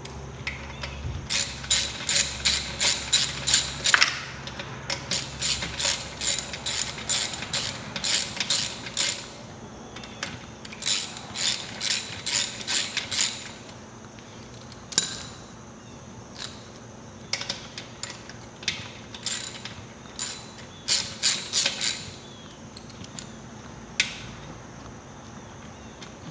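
Hand socket ratchet clicking in quick runs with pauses between, as the exhaust front pipe's mounting bolts are tightened down.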